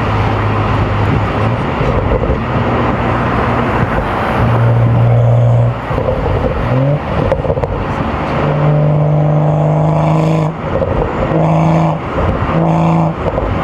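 BMW M235i's turbocharged inline-six engine pulling steadily at first, then its note climbs to a higher pitch about halfway through. Near the end it breaks off and comes back several times in short bursts, over a constant rush of road and wind noise.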